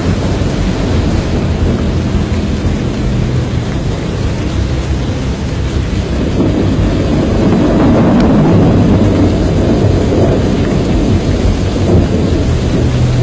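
Film storm sound: a continuous low rumble of thunder with rain, swelling to its loudest about eight seconds in.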